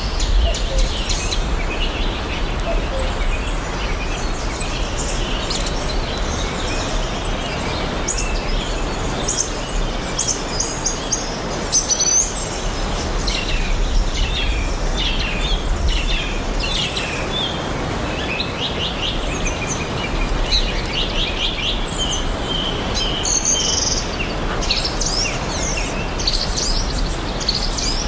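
Many birds chirping and singing in quick short phrases over a steady even rushing noise with a low rumble.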